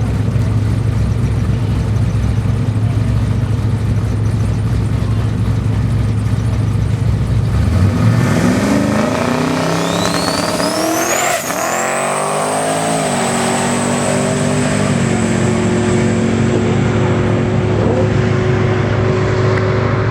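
Twin-turbo 1989 Chevrolet Camaro drag car running steadily at the line, then launching about eight seconds in and accelerating hard, its engine pitch climbing and dropping back at each gear change. A high whine climbs alongside it.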